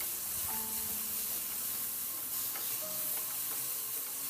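Chopped onion and tomato sizzling in hot oil in a kadai while a spatula stirs them against the pan, a steady frying hiss with faint scrapes and taps.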